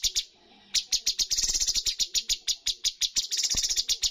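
Cucak cungkok songbird singing a rapid run of sharp, chattering notes, several a second, with a brief pause just under a second in.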